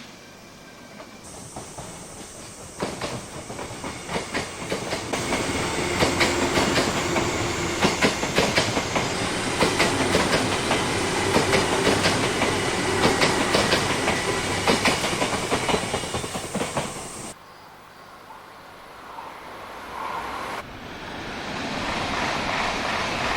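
Electric train running past with wheels clattering in a rapid clickety-clack, building over the first few seconds and cutting off suddenly about 17 seconds in. A different, rising rush of noise starts near the end.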